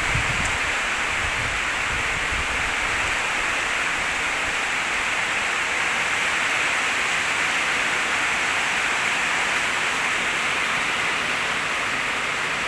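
Steady hiss of a high-pressure water jet spraying from the spray gun of an H&L QL-1200 jet cleaner, even and unbroken.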